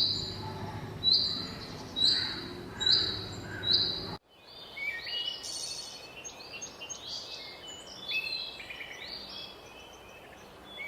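Bird calls: one bird repeats a short, high, even note about once a second, then after a sudden cut a mix of many birds chirping in varied, overlapping calls.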